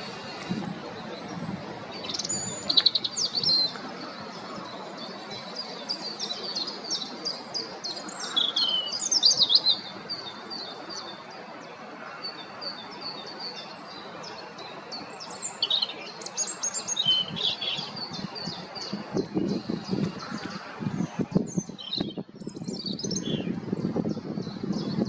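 European robin singing: a series of short, varied phrases of high, thin warbles and trills, separated by brief pauses. A low rumble comes in near the end.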